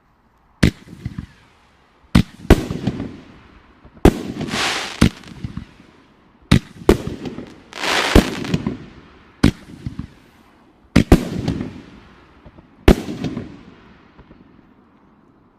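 A volley of six 1.4G 6-inch canister shells with go-getter effects fired one after another: about a dozen sharp bangs a second or two apart, each followed by a fading hiss as the go-getter stars scatter.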